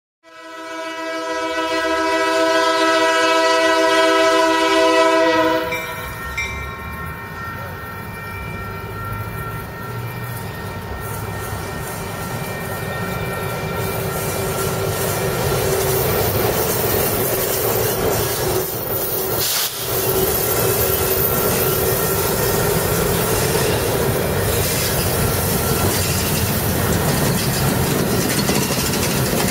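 A diesel locomotive's air horn sounds one long chord for about five seconds. Then the BNSF diesel locomotive runs past, followed by its train of towed cars, the wheels clicking over the rail joints and the sound slowly growing louder.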